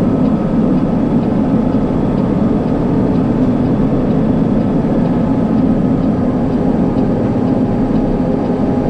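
Semi truck's diesel engine and road noise, heard steady from inside the cab as the truck rolls downhill with the engine brake switched off.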